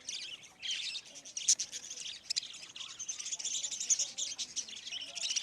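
Many small cage birds chirping and twittering at once, a dense overlapping chatter of short high calls.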